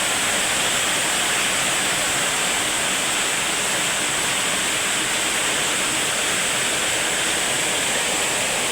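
Heavy rain falling: a steady, dense hiss with no change.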